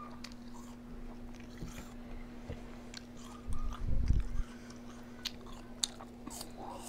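Close-miked chewing and biting of food, with scattered crunchy clicks and mouth noises. About halfway through there is a loud low thump lasting under a second. A steady low hum runs underneath.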